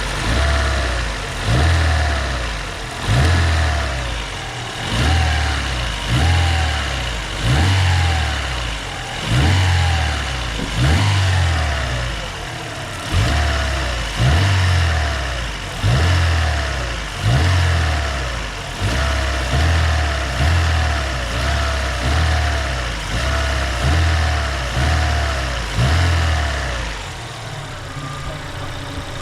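Freshly rebuilt Daewoo Lanos engine, warm, with the throttle blipped over and over, roughly every two seconds: each rev rises sharply and falls back to idle, with no knock heard now that the rebuild is done. The blipping stops near the end.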